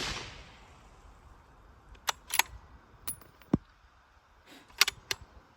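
The echo of a suppressed 6.5 Creedmoor rifle shot fades out over the first half second. Then comes a series of sharp metallic clicks and one dull knock: the rifle's bolt being worked to eject the spent case and chamber the next round.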